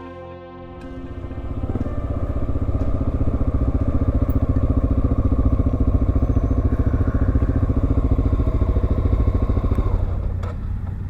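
Dual-sport motorcycle engine running under way, a fast, even pulsing that builds up over the first couple of seconds and holds steady, then drops to a lower level about ten seconds in.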